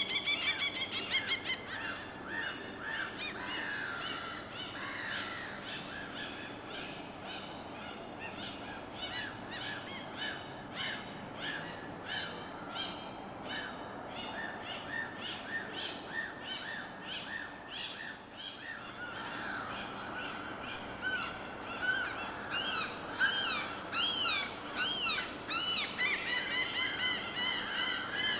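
Birds chirping and calling over and over in quick short notes over a steady wash of harbour water; the calls grow louder and busier in the last third.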